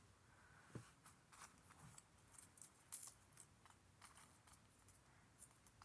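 Near silence: room tone with faint scattered clicks.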